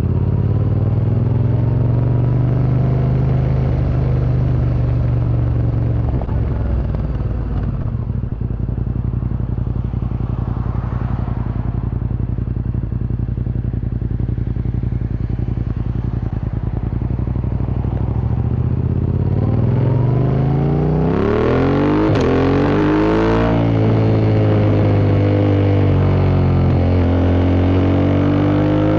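Yamaha MT-07's parallel-twin engine through an Akrapovic Racing Line exhaust, running at a fairly steady speed while riding. About two-thirds of the way through it revs up hard, rising in pitch, drops briefly at a gear change, and climbs again.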